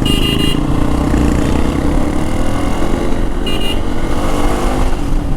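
Hero Xpulse 200 4V's single-cylinder engine running steadily under way through an MW Performance full-system stainless steel exhaust, a loud low rumble mixed with road and wind noise. Two brief high-pitched sounds cut in, one at the start and one about three and a half seconds in.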